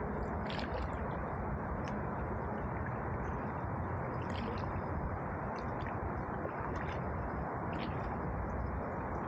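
Canoe paddle dipping into river water, with small splashes and drips about every second or so over a steady rushing noise of water and wind.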